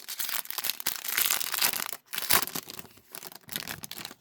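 A trading-card pack's wrapper being torn open and crinkled, in two spells of rustling separated by a brief pause.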